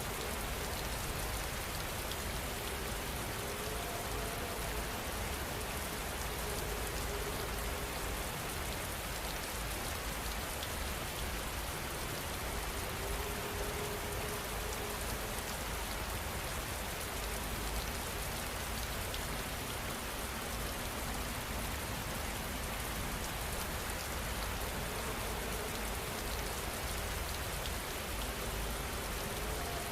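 Steady rain falling, an unbroken even hiss.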